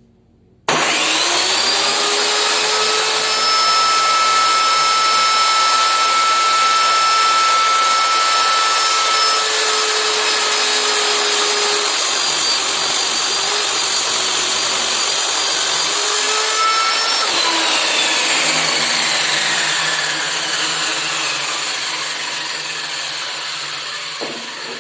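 Homemade table saw switched on: its motor and blade spin up quickly to a loud steady whine and run at speed, then it is switched off about two-thirds through and winds down, the pitch falling and the sound fading to the end.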